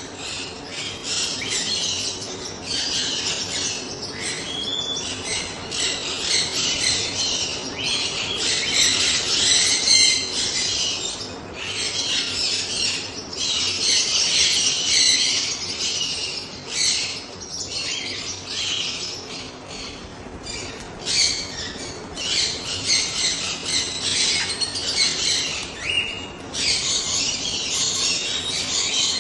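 A flock of caged pet birds, small parrots such as lovebirds and cockatiels, chattering and squawking together in a dense, continuous high-pitched din.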